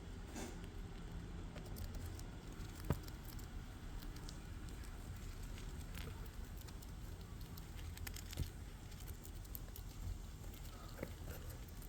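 A pet fancy rat moving about, its claws making faint scattered patters and small scratchy clicks, with a sharper click about three seconds in and another near the middle.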